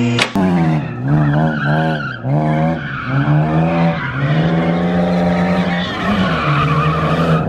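BMW E36 drift car's engine revving hard in several quick up-and-down pulses, then held high through a long slide with a short dip near the end. The tyres squeal throughout, loudest in the second half.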